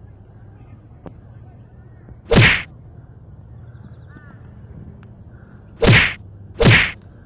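Three sharp whip-crack smacks: one about two and a half seconds in, then two close together near the end.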